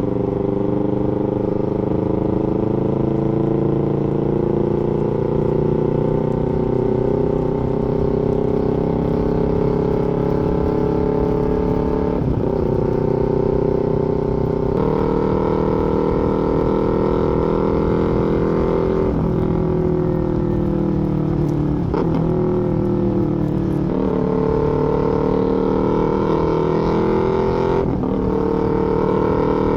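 Exhaust note of a 300-class parallel-twin sport bike fitted with a full aftermarket exhaust, running steadily. The pitch climbs slowly at first, then steps down and back up several times with brief breaks at each change.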